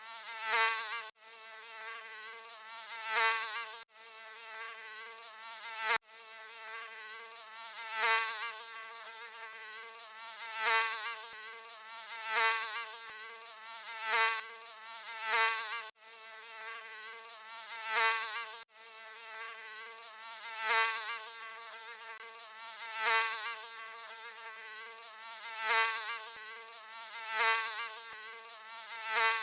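Mosquito buzzing: a steady whine that swells louder and fades back about every two seconds, as if the insect flies past close by again and again, with brief cut-outs where the recording loops.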